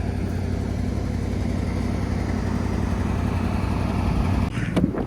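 A vehicle engine running steadily with a low hum. It cuts off abruptly about four and a half seconds in, and a couple of brief knocks follow.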